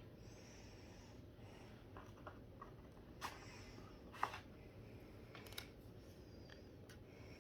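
Near silence with a low steady hum, broken by a few faint clicks and taps from brush pens being handled while coloring; the sharpest comes about four seconds in.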